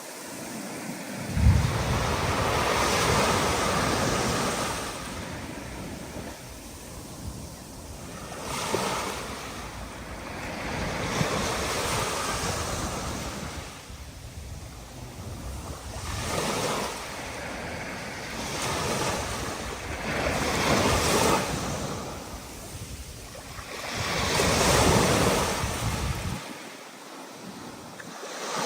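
Ocean surf breaking in waves that swell and fall every few seconds, with wind gusting over the microphone as a storm builds.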